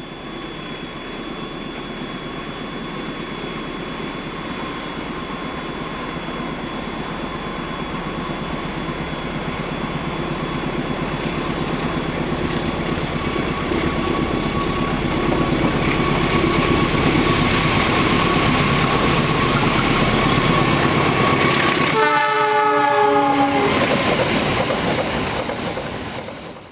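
A diesel locomotive-hauled train approaches and passes, its rail and engine noise slowly growing louder. About 22 seconds in the locomotive's horn sounds for about two seconds, its pitch dropping slightly as it goes by.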